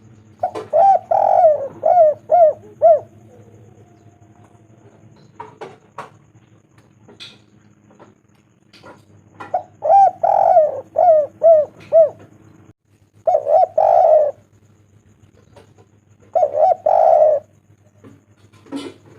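Spotted dove cooing in repeated phrases: two runs of about six quick coos each, then two shorter two-note coos, with a short call near the end.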